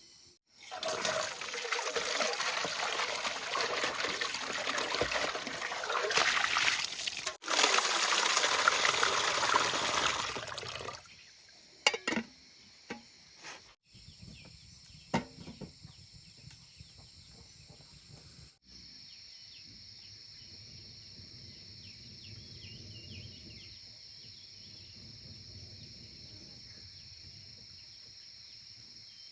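Water pouring and splashing steadily for about ten seconds, broken off abruptly twice, followed by a few sharp clicks. Then a steady high insect chorus of crickets.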